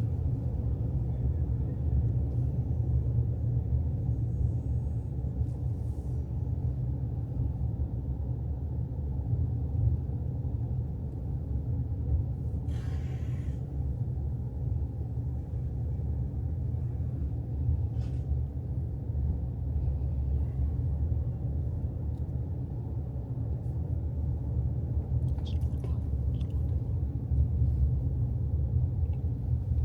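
Steady low rumble of a moving car heard from inside, with a few brief hisses.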